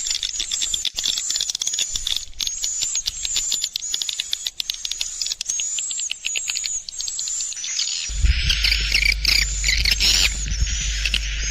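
A flock of white-nest swiftlets twittering, a dense stream of rapid clicks and short high chirps. About eight seconds in a low steady hum joins and the chirping grows thicker.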